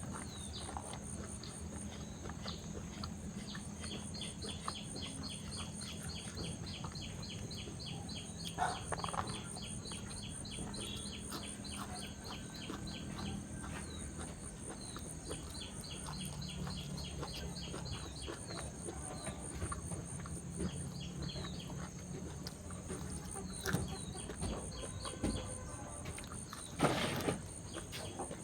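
Birds chirping in repeated quick runs over a steady high-pitched drone, with a few short clicks, the loudest near the end.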